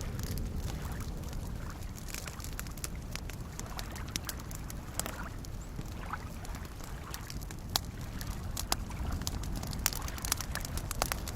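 Campfire crackling with scattered sharp pops, a few louder ones in the second half, over small lake waves lapping and a steady low rumble.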